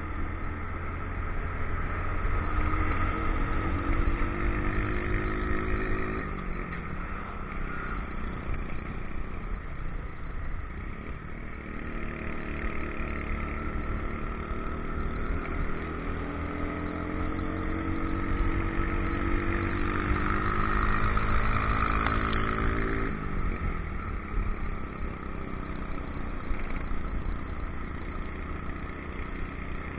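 Motorcycle engine running under way, its pitch climbing as it accelerates and then dropping sharply, twice: once about a fifth of the way in and again, after a longer climb, about three-quarters of the way in. A steady low rumble runs underneath.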